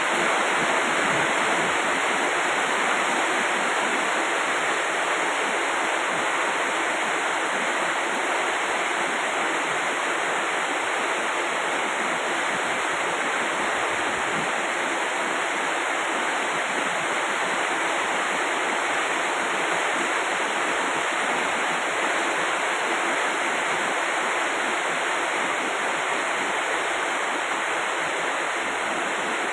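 Heavy rain falling, a steady, even hiss of downpour throughout.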